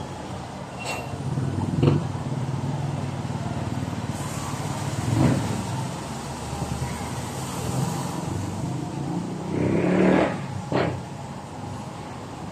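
A motor vehicle's engine running steadily amid road noise, with short louder swells about five and ten seconds in.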